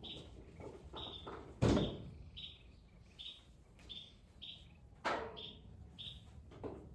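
A short high chirp repeating at a steady pace, a little more often than once a second, with two loud knocks: one about a second and a half in and one about five seconds in.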